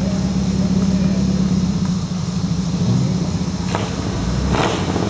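Car engines running with a steady low rumble, with two brief hissing whooshes near the end.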